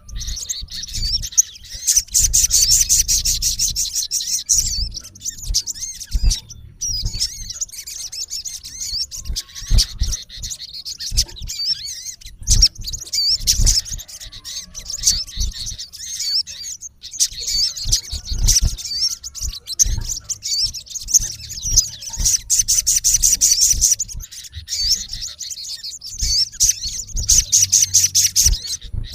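Male olive-backed sunbird singing a rapid, high twittering song in long runs with short pauses between them: the territorial song a male uses to call out a rival.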